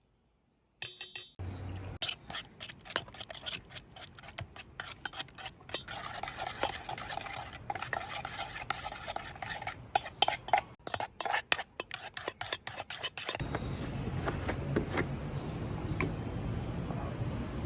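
Metal spoons or cutlery clinking, tapping and scraping against a dish or pot, as in stirring or mixing, with some strikes ringing briefly. Near the end the sound changes suddenly to a steady hiss with a few scattered clicks.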